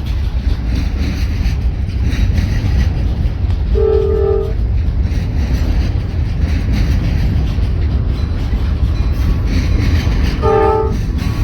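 Train running past with a steady heavy low rumble. The locomotive's air horn sounds two short blasts, one about four seconds in and one near the end.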